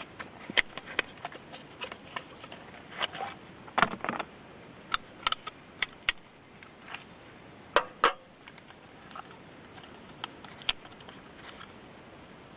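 Irregular light clicks and knocks of small hard objects being handled, with a cluster about four seconds in and the loudest pair of knocks around eight seconds in.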